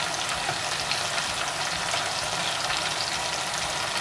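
Marinated chicken pieces shallow-frying in hot sunflower oil in a pan, a steady sizzle with many small crackles and spits.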